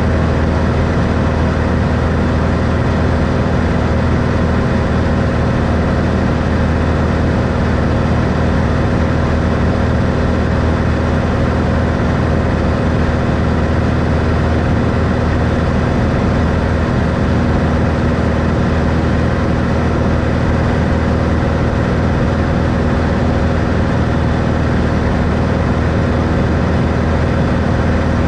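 Cessna Skylane's six-cylinder Continental O-470 engine and propeller running at a steady power setting, a constant loud drone heard inside the cabin.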